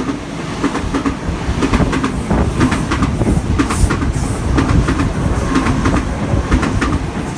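Sydney Trains Waratah (A set) electric train running through the station at speed, its wheels clattering over rail joints and points over a steady rumble.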